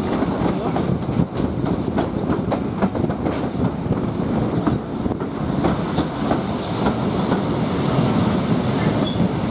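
Heritage railway carriage running along the line behind a steam locomotive, a steady rumble with the wheels clattering irregularly over the rail joints.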